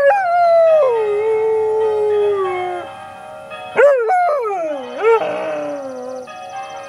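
Berger Picard puppy howling along with ringing church bells. It gives a long howl that starts high and slides down in pitch, and after a short pause a second howl that wavers up and down several times. The bells' steady tones ring on underneath.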